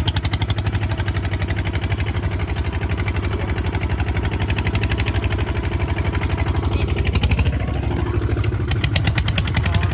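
Engine of a converted farm tractor running steadily while driving, with an even, rapid chugging from its firing strokes; the tone shifts briefly about seven seconds in.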